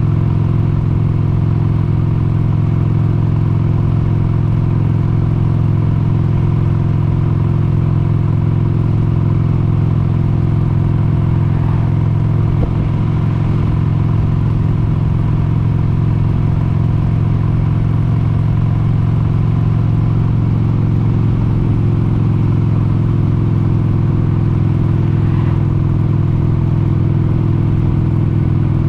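1996 Harley-Davidson XLH883 Sportster's air-cooled 883 cc Evolution V-twin running at a steady cruising speed, its pitch holding level, with a brief dip about halfway through.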